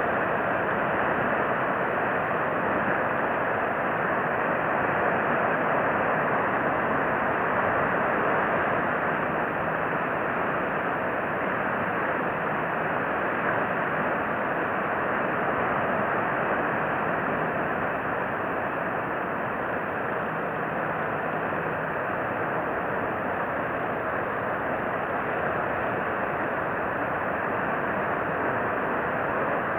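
Steady rushing noise, even throughout, with no bird calls or other distinct sounds.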